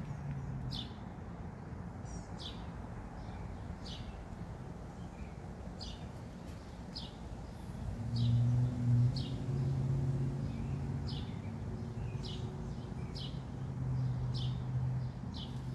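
A bird chirping over and over, short falling chirps about once a second. About halfway through, a low steady motor hum comes in and runs until near the end.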